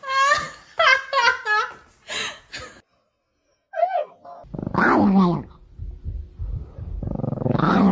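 A woman laughing in quick, high bursts, then after a brief break a dog vocalising with loud growls and barks.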